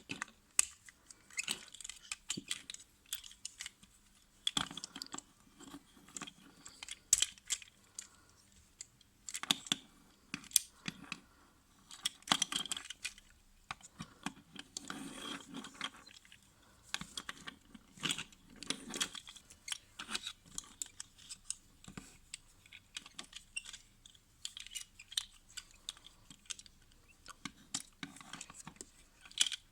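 Irregular clicks and rattles of hard plastic parts as a Tobot Y transforming helicopter-robot toy is handled and transformed by hand.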